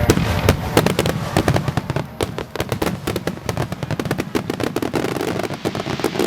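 Aerial fireworks going off in a rapid, dense string of bangs and crackles, several bursts a second.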